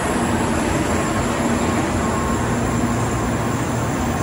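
Tokaido Shinkansen train moving slowly along the platform: a steady rolling rumble and whir with a faint low hum, unchanging in level.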